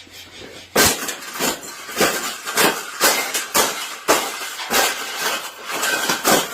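A wire cage being repeatedly banged and rattled: about a dozen sharp clanking strikes at roughly two a second, irregularly spaced, each with a brief metallic ring.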